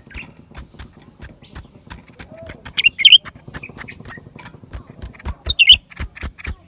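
Blue-winged leafbird calling: a run of short clicking notes, with two loud bursts of sharp chirps about three seconds and five and a half seconds in.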